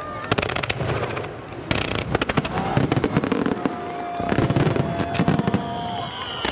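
Aerial firework shells bursting in a rapid barrage, several bangs a second with crackling in between. The bangs come in dense runs, with a short lull around the middle.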